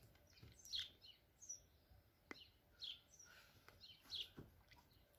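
Faint bird chirps in a garden: short high calls every second or so, with one sharp tick a little past two seconds in.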